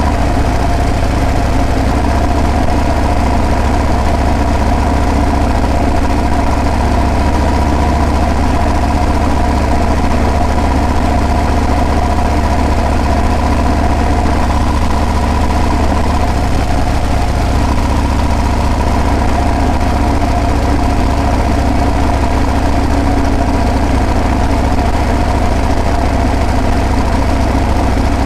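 Harley-Davidson Breakout's V-twin engine and exhaust running at a steady, unchanging note.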